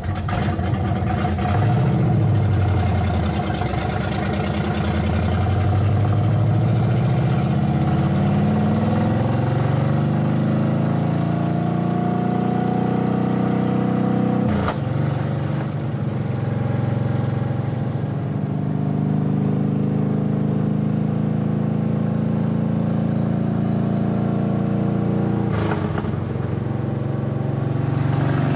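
V8 with open steel headers and a lumpy camshaft, heard from inside the car, pulling through the gears. The pitch climbs steadily, drops sharply about halfway through and again near the end, then climbs again.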